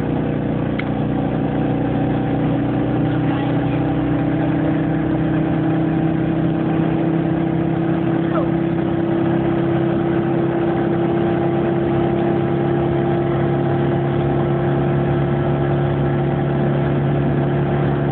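Citroën 2CV6's air-cooled flat-twin engine running steadily while the car is driven, a constant drone whose pitch creeps up very slightly.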